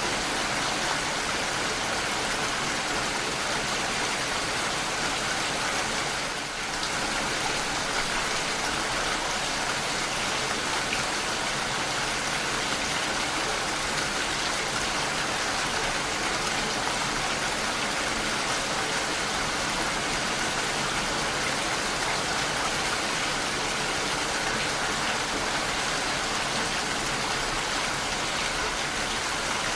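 Steady, even rain falling, with one short dip in loudness about six seconds in.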